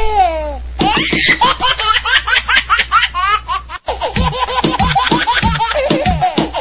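High-pitched laughter, a rapid string of ha-ha-ha pulses, with an abrupt break about four seconds in.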